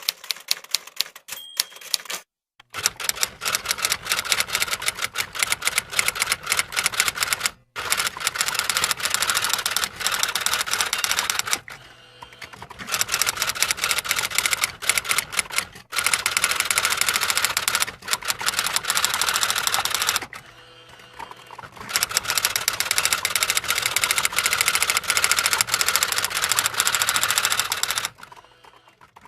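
Typewriter keys struck in fast runs of rapid clicks, each run lasting several seconds, broken by short pauses.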